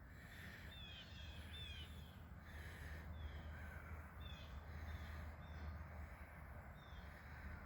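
Faint bird calls: short, thin chirps that slide downward, repeated every half second to a second, over a low steady rumble.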